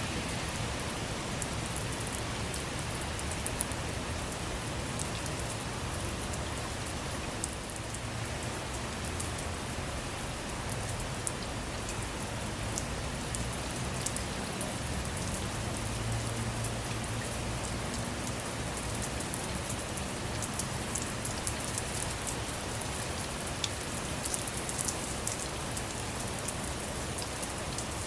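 Steady rain falling on a car's roof and windows, with individual drops ticking sharply throughout.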